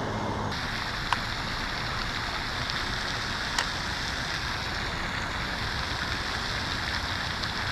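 Steady rush of storm runoff pouring from a drain pipe into the water after heavy rain, with two brief faint clicks.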